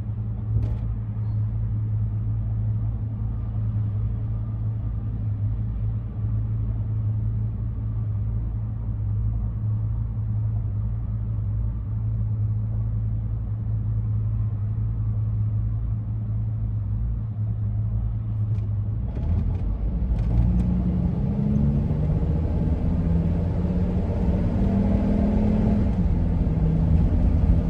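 Ford E-350 van heard from inside the cab: a steady low drone of engine and vehicle noise. About two-thirds of the way in it grows louder and fuller, with the engine pitch climbing in steps as the van pulls away and picks up speed.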